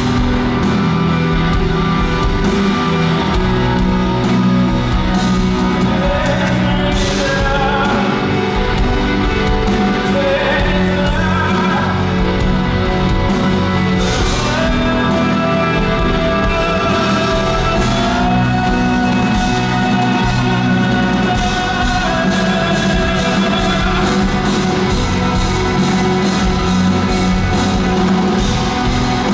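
Live pop-rock band performance with a male singer holding long sung notes over guitar and the rest of the band.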